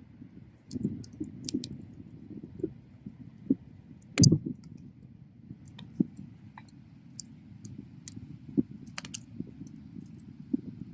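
Wood bonfire crackling, with irregular sharp pops and snaps over a low, steady rumble of flame. The loudest pop comes a little after four seconds in.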